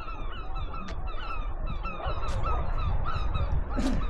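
A flock of birds calling over and over, short calls that rise and fall, several a second, overlapping one another.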